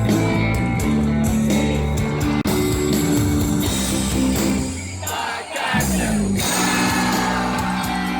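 Rock music with electric guitar and singing; the bass drops out briefly about five seconds in before the band comes back in.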